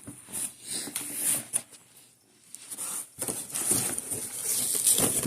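Packaging being handled and rustled during the unboxing of a VCR/DVD player: irregular crinkling and rustling, with a brief lull about two seconds in before the rustling resumes.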